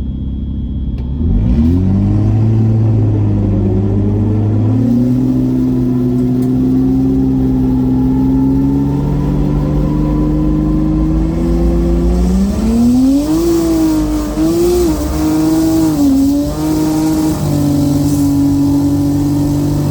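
Turbocharged BMW N54 inline-six accelerating hard down a drag strip. It launches about a second and a half in, and its note climbs slowly with a step about five seconds in. In the second half the note wavers unevenly.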